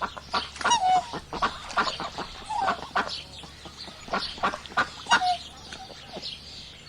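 Fowl calling: many short calls in quick succession, several gliding down in pitch.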